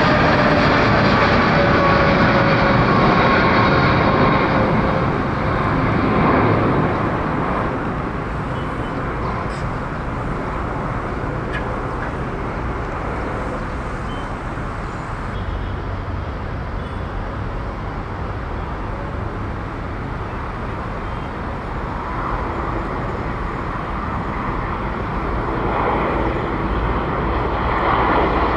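Jet airliner engines with a whine that falls in pitch over the first few seconds as the aircraft passes. The sound then eases to a steady, lower rumble and grows louder again near the end.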